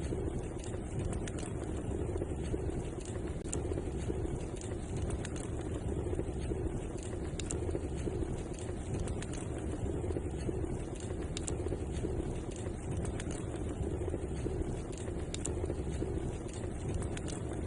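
Wood fire crackling, with irregular small pops and snaps scattered over a steady low rushing sound.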